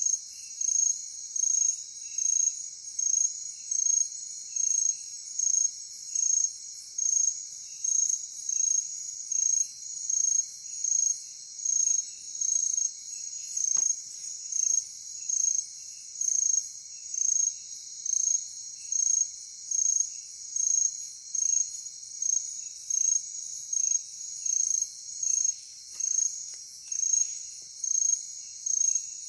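Crickets chirping in a night chorus: a high, pulsed call repeating a little more than once a second over a continuous high trill, with a softer, lower chirping alongside. A single faint click about halfway through.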